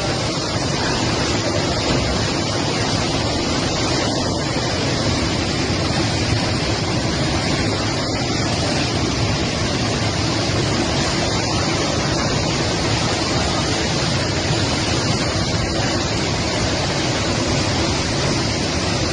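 Floodwater rushing through the streets in a torrent: a loud, steady, unbroken roar of fast-moving water.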